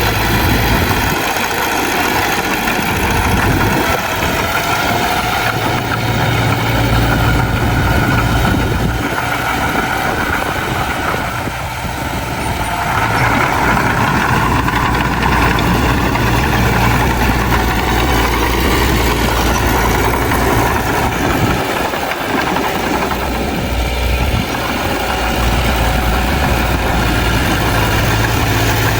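Heavy diesel engine of a bulldozer running steadily, with a deep hum that eases briefly about twelve seconds in and again a little before the end.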